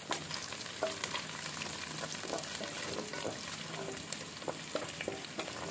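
Chopped garlic, ginger, curry leaves and pandan leaves sizzling in hot oil in a stainless steel pan: a steady hiss with many small crackles and pops.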